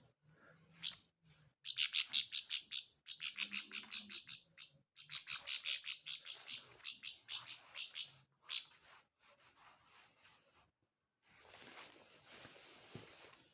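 A small bird chirping in long runs of quick, high repeated notes, about five a second, that stop about two-thirds of the way through.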